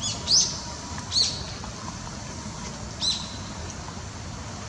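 Common kingfisher calling: short, shrill, high-pitched calls, two in quick succession at the start, then single calls about a second in and about three seconds in.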